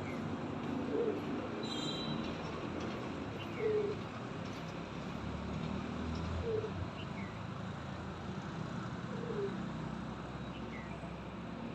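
Pigeons cooing: four short, low coos about three seconds apart. Faint high chirps from a smaller bird and a steady low rumble run underneath.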